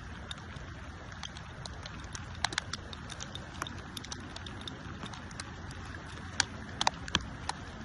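Kayak paddling: irregular sharp clicks and knocks from paddle and hull over a steady low rumble.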